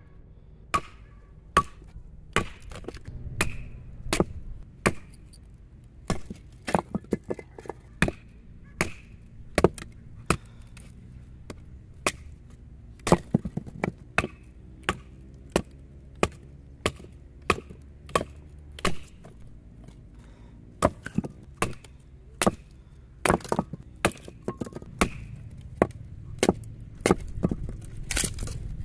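Ka-Bar BK2 fixed-blade knife chopping into wood: sharp, irregular strikes, about one or two a second, each with a short ring.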